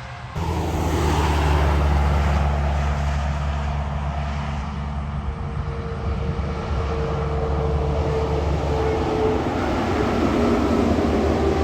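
A heavy truck's diesel engine running steadily with a deep drone. It cuts in abruptly about half a second in, and a faint whine comes and goes in the second half.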